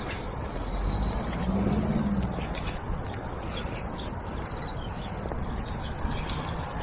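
Outdoor ambience: birds chirping several times over a steady background noise and low rumble, with a low hum that swells and fades about two seconds in.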